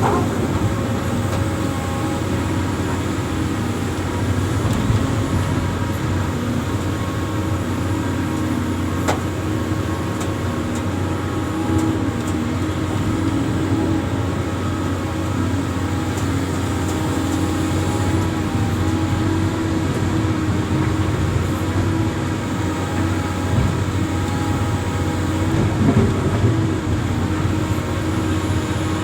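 Amphibious excavator's diesel engine running steadily.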